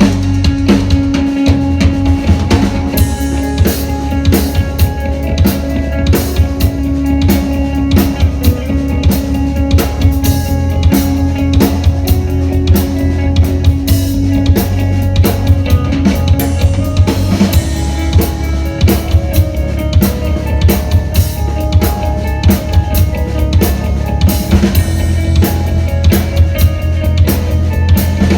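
A rock band playing live: a drum kit keeping a steady, fast beat with kick drum and snare, under sustained bass and electric guitar.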